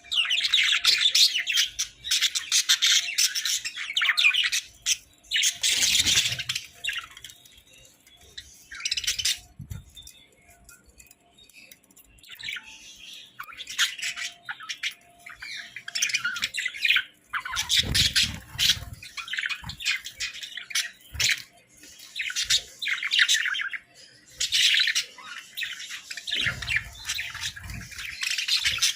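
Budgerigars chattering and chirping in quick warbling bouts that start and stop every few seconds, with a few soft low thumps in between.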